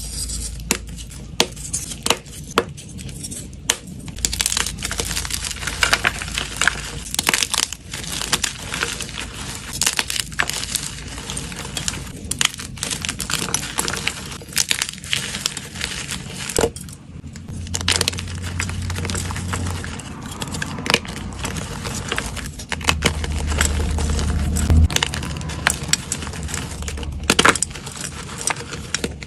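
Blocks of gym chalk being crushed and crumbled at close range: a dense run of crisp crunching and crackling, broken by frequent sharp snaps.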